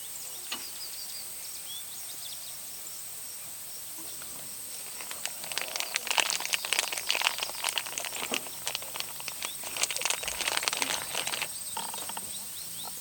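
Wood fire crackling, with a dense run of sharp pops from about five seconds in until shortly before the end, over faint bird chirps.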